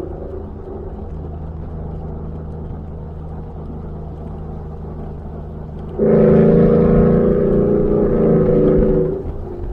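Ford F-150 pickup's engine through a Borla Atak aftermarket exhaust, cruising with a steady low drone. About six seconds in, the exhaust gets much louder for about three seconds under throttle, then settles back to the cruising drone.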